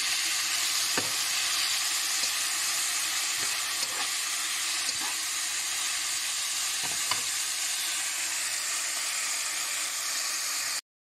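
Onion and pineapple chunks sizzling steadily in hot oil in a frying pan while being stirred, with a few light clicks of a metal spatula against the pan. The sound cuts off abruptly near the end.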